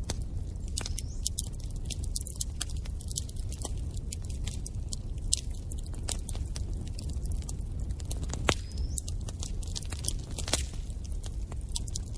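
Wood fire crackling in a fireplace: irregular sharp snaps and pops over a steady low rumble of burning, with a few louder pops standing out.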